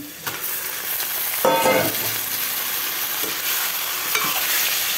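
Raw chicken pieces sizzling steadily in hot oil with onions and spices, as a metal spoon stirs them round a metal pot. About one and a half seconds in there is a short ringing scrape, and a few sharp knocks of the spoon on the pot follow.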